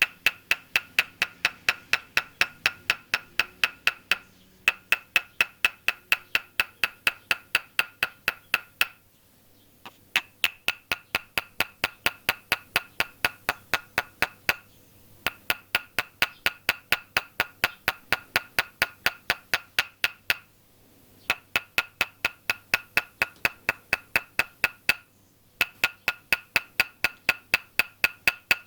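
Toksen massage: a wooden mallet tapping a wooden peg held against the body, a rhythmic knocking at about four strokes a second with a hollow, ringing wooden tone. The tapping stops briefly about every five seconds and then resumes.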